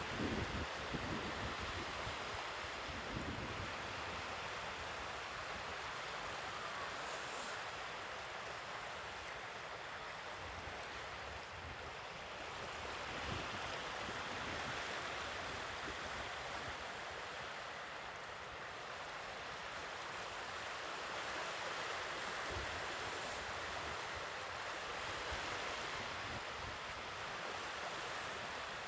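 Sea waves washing on the shore: a steady hiss of surf that slowly swells and eases, with a low rumble in the first few seconds.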